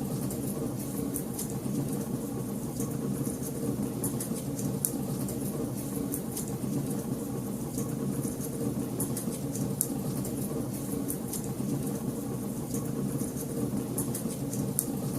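Wood fire in a fireplace crackling, with frequent sharp pops and snaps at irregular intervals over a steady low rumble.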